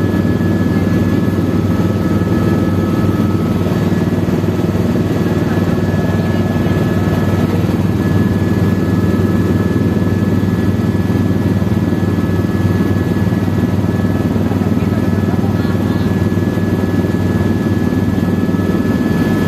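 Helicopter running steadily: a constant loud drone of rotor and engine, with a thin, steady high whine over it.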